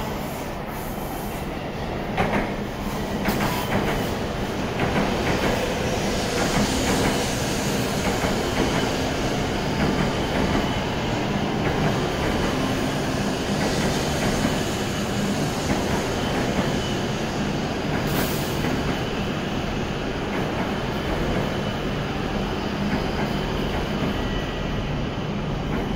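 Shinkansen train moving along the platform with a steady running noise and a low hum, with a few sharp clicks about two to four seconds in.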